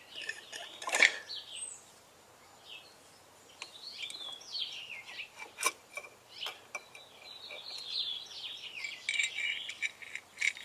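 Birds chirping and twittering in the background, with a few sharp metal clinks from parts being handled during an engine teardown. The loudest clink comes about a second in.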